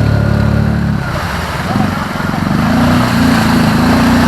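ATV engine running under throttle. The note breaks up about a second in, then climbs again as it revs.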